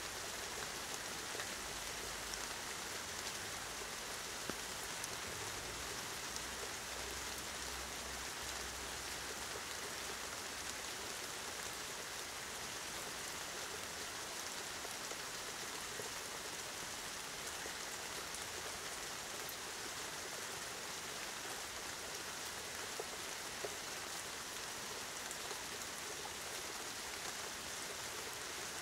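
Steady rain from a thunderstorm falling in an even hiss, with a few single drops ticking louder now and then. A faint low rumble runs underneath through the first ten seconds or so.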